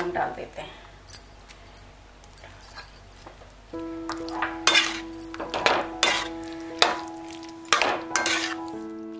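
Metal spatula scraping and knocking against a metal pan as pasta is stirred through thick white sauce, with several sharp clinks. Background music with sustained tones comes in about four seconds in.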